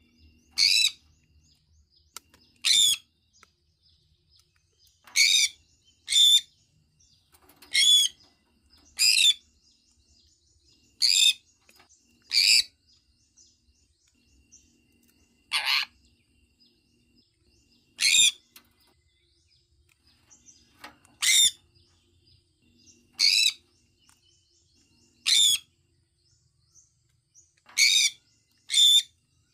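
Sun conure giving short, loud, high-pitched calls, about fifteen of them, one every one to three seconds.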